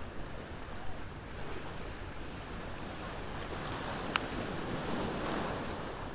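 Sea waves washing ashore, one wave swelling up about five seconds in, with a campfire's wood crackling over it and one sharp pop a little past four seconds.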